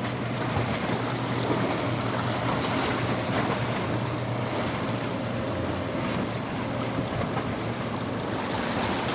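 Boat engine running steadily over waves breaking, with wind buffeting the microphone.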